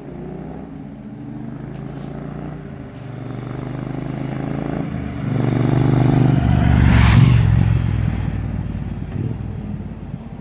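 Triumph T120 parallel-twin motorcycle exhaust running, getting louder to a peak about seven seconds in and then fading away.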